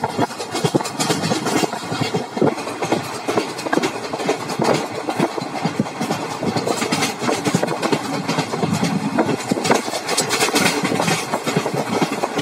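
Train running at speed, heard from inside a moving coach: a steady rumble and rush of wheels on rails, with irregular clacks and rattles.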